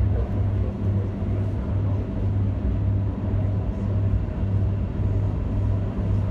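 Suburban electric train running along the track, heard from inside the carriage: a steady low rumble with a droning hum.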